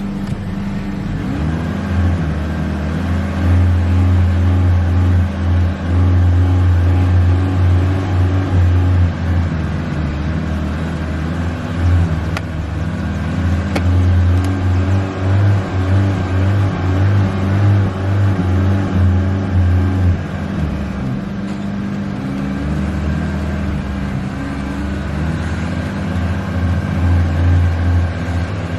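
Honda Civic engine running as the gas pedal is pumped, the engine note stepping up and down between revs.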